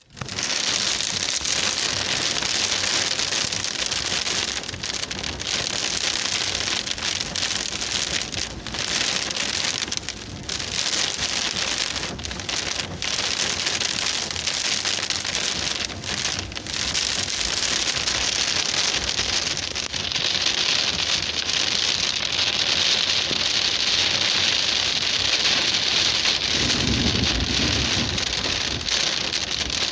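Heavy rain falling steadily on surfaces, a loud continuous hiss of drops. A low rumble joins in near the end.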